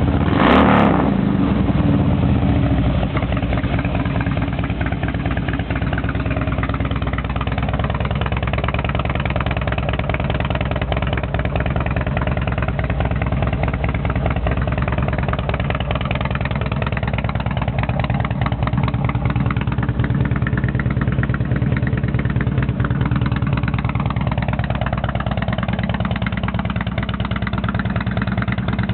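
Harley-Davidson Road King's V-twin engine running through Hooker Tuned Flow mufflers. There is one short throttle blip about half a second in, then a steady idle.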